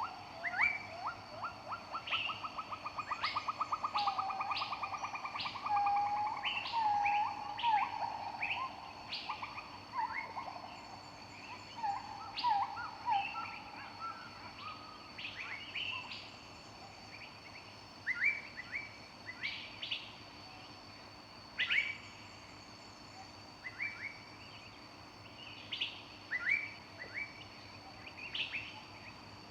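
Several wild birds singing: many short chirps and whistled notes, with a fast rattling trill over the first few seconds.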